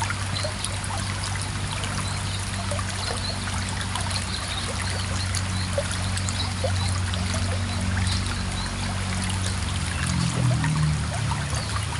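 Running water trickling and splashing steadily, like a small mountain stream, over a steady low hum.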